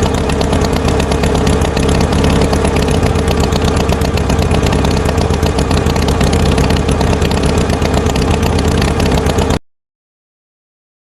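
Tractor engine sound effect running steadily with a fast, even clatter, then cutting off suddenly near the end.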